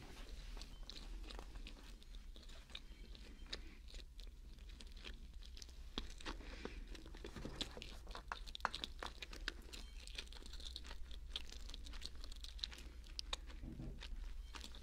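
Close-up chewing of a mac and cheese sandwich into a binaural microphone: a run of many small, sharp mouth clicks and wet sounds.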